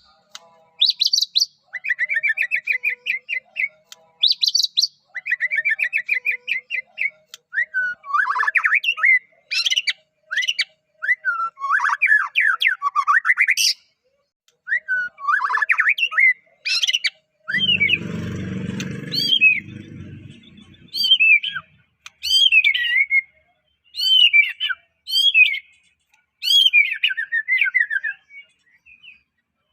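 White-rumped shama (murai batu) singing a long varied song: short phrases of fast trills and sweeping whistles separated by brief pauses. About two-thirds of the way in, a low rustling noise lasts about two seconds under the song.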